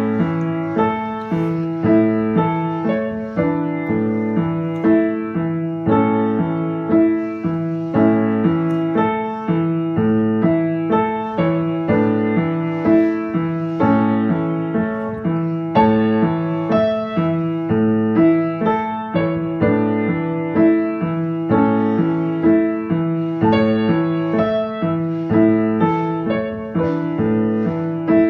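Background music: a piano playing a steady run of sustained notes.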